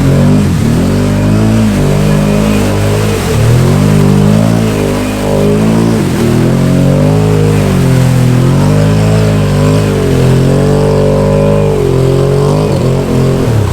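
Can-Am Outlander 650 XMR ATV engine revving up and down again and again as the quad is driven hard through a mud hole.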